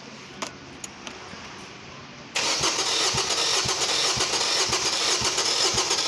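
Mazda 323 Astina engine cranking on the starter motor without firing, with cylinder 1's spark plug removed, beginning suddenly about two seconds in with a steady beat of compression pulses.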